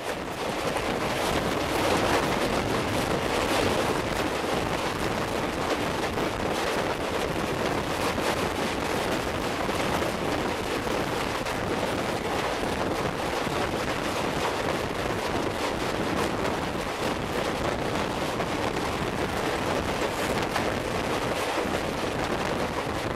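Passenger train's wheels rumbling and clattering on the rails as the coach crosses a steel truss bridge, steady throughout, with wind buffeting the microphone at the open door.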